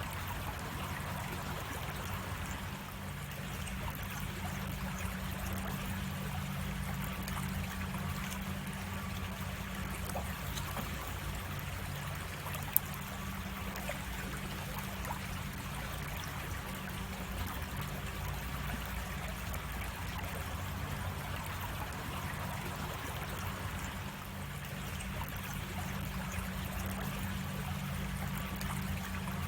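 A cascading creek, water running steadily over rocks in an even rush. A single sharp click sounds a little before halfway.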